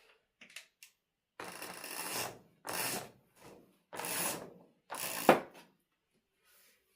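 Four scraping strokes, each lasting under a second, with a sharp clack during the last one.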